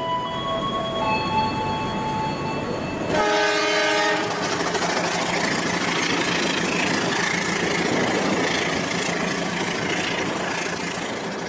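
A few held chime-like notes, then a train horn blast about three seconds in, followed by the steady noise of a train running on rails.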